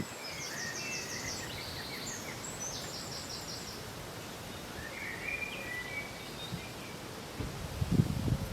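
Wind blowing over a field of crops, a steady rustling hiss, with small birds chirping and trilling high up during the first three seconds and again about five seconds in. Near the end, low gusts buffet the microphone.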